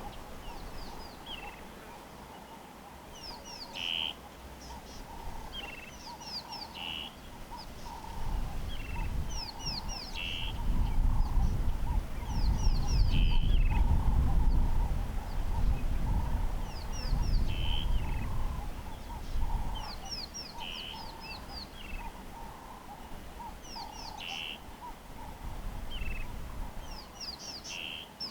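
A songbird repeating a short phrase of quick, high, falling notes about every three to four seconds, with steady lower calling behind it. A low rumble swells through the middle and is loudest there.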